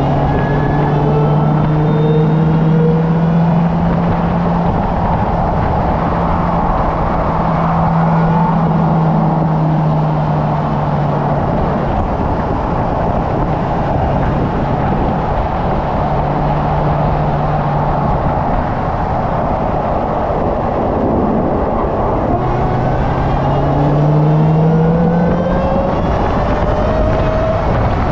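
Car engine pulling around a race track at moderate speed, its note holding steady for long stretches and rising in pitch as the car accelerates near the end, over heavy road and wind noise.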